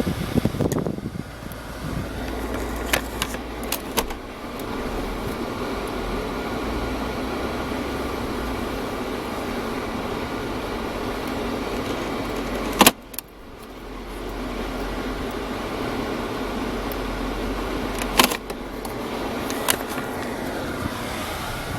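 Dodge Magnum's new replacement 3.5-litre V6 running steadily, a smooth, even hum that sounds healthy. A few sharp clicks, and one loud knock about 13 seconds in, after which the sound dips briefly and then comes back.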